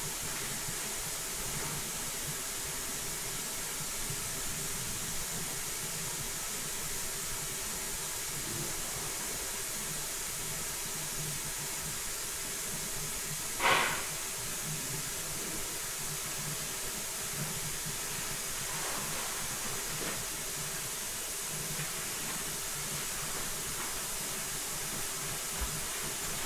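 Steady hiss with faint handling noises of parts being worked on by hand, and one short, sharp knock about halfway through.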